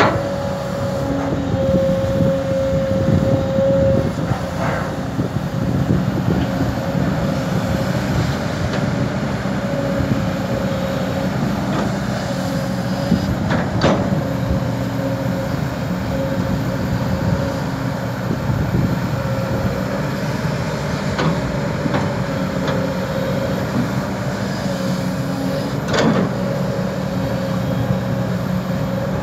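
Kobelco SK200 excavator's diesel engine running steadily under load, with a steady hydraulic whine, while it digs and loads soil into a dump truck. Three sharp knocks are spaced through it.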